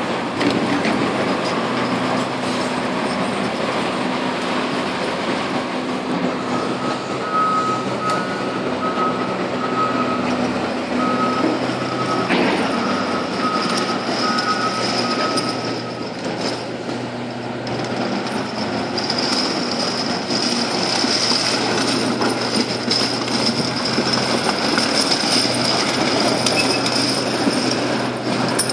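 Heavy quarry machinery running steadily, with a reversing alarm beeping in short repeated tones for several seconds from about a quarter of the way in. A high whine grows stronger over the second half.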